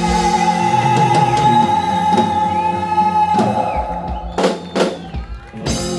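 Live band playing the close of a rock cover song: a long held note for about three and a half seconds, then a few short, sharp accented hits from the whole band near the end.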